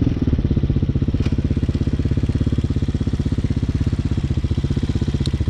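Hawk 250 dirt bike's single-cylinder four-stroke engine idling with an even, rapid putter after the revs drop right at the start.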